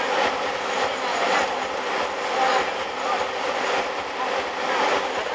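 Steady outdoor noise with faint distant voices.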